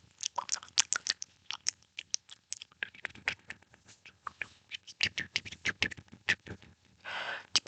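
ASMR mouth sounds close to the microphone: rapid wet and dry clicks, pops and smacks of the tongue and lips, irregular and many per second, with a short breathy hiss near the end.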